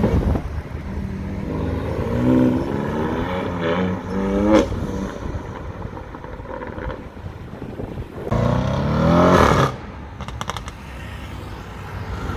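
BMW M4's twin-turbo straight-six accelerating hard away, its revs climbing through several quick upshifts. About eight seconds in comes a second loud, rising full-throttle run that cuts off sharply.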